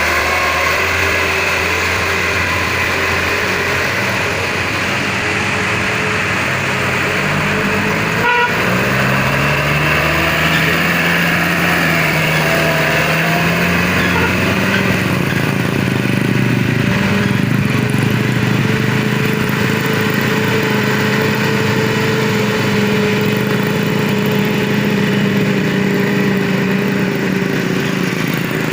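Truck engines labouring up a hill, their pitch rising and falling as they pull and change gear, with traffic passing. A sharp knock about 8 seconds in.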